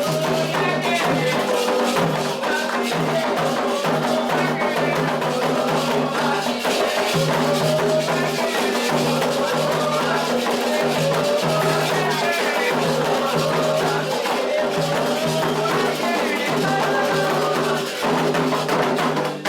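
Candomblé ritual drumming: hand drums and a rattle keep a steady fast rhythm under voices singing a chant.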